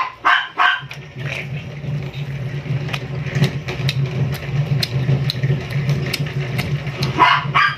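Close-up chewing clicks and smacks from eating barbecued chicken feet, over a steady low engine-like drone that starts about a second in.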